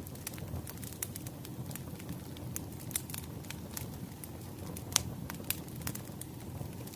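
Wood fire crackling: irregular sharp pops and snaps over a low steady rumble of flames, with one louder pop about five seconds in.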